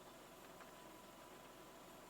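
Near silence: a faint steady hiss with one faint tick about half a second in.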